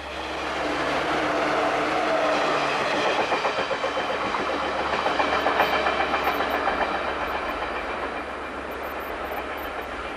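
Electric passenger train passing close by, its wheels clattering in a quick steady rhythm over the rail joints with a steady hum from its motors. It swells in over the first second and slowly fades near the end.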